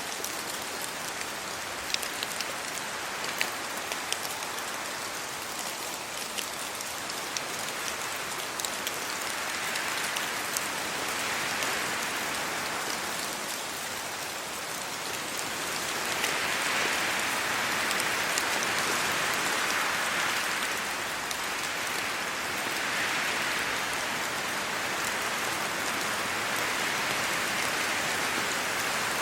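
Steady rain falling on a road and on tree leaves, with sharp drop ticks in the first few seconds. From about a third of the way in the hiss swells and eases in slow waves as gusts of wind move through the wet leaves.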